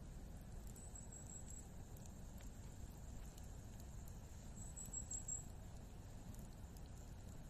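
Faint campfire crackling: scattered small pops and ticks over a steady low rumble. A high thin trill comes twice, about a second in and again about five seconds in.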